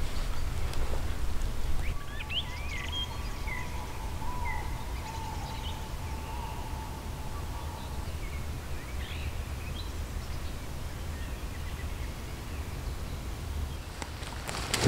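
Wild birds chirping in woodland over a steady low background rumble, the chirps coming from about two seconds in until about ten seconds in, with a faint steady tone held under them for several seconds.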